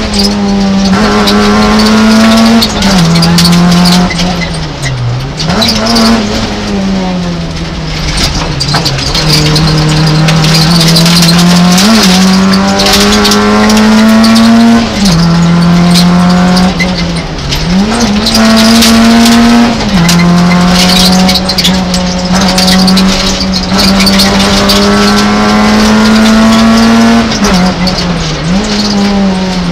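Peugeot 106 rally car's engine heard from inside the cockpit, driven hard at high revs, its pitch dropping and climbing again every few seconds with lifts off the throttle and gear changes.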